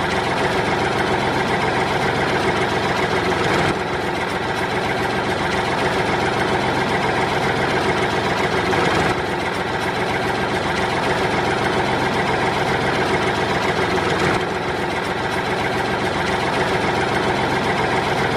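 A heavy engine idling with a steady, even rumble, with small shifts in level about every five seconds.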